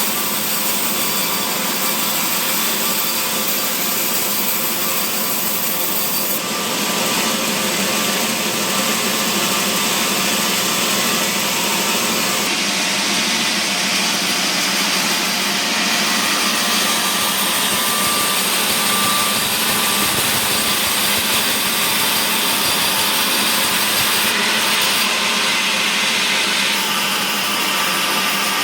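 Power saw running and cutting mahogany wood, a loud, steady noise whose tone shifts slightly a few times as the cut goes on.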